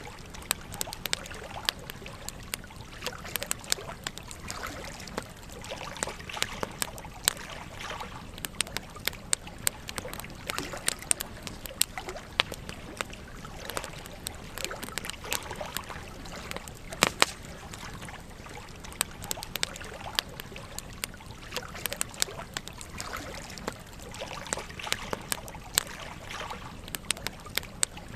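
Campfire burning: wood crackling and popping irregularly over a steady hiss of flame, with one sharper pop a little past halfway.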